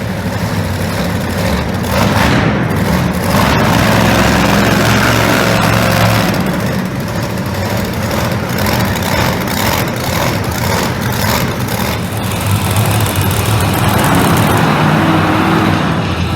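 Monster truck engine running loudly, its revs rising and easing.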